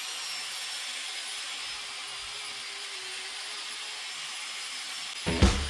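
Wire cup brush on an angle grinder scouring old paint and filler off a cast-iron milling machine head: a steady, hissing grind with a faint motor whine. Near the end, loud music with a beat cuts in over it.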